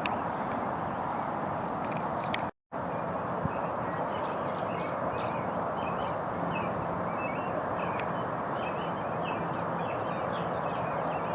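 Small birds chirping and twittering in quick high notes over a steady rushing background noise. The sound drops out for a moment about two and a half seconds in.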